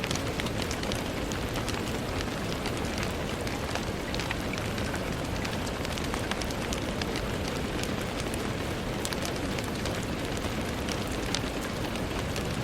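Steady rain falling on a window, a constant hiss dotted with many small, sharp drop taps.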